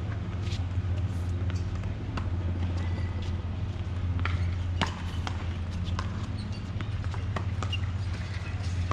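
Scattered, irregular sharp knocks of a ball game on a court, over a steady low hum.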